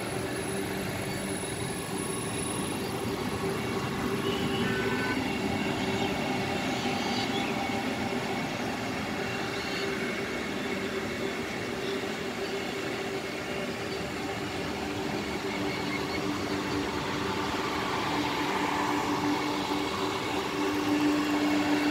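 Vande Bharat Express electric multiple-unit train rolling past: a steady rumble of wheels on rails with a faint even hum, growing a little louder near the end.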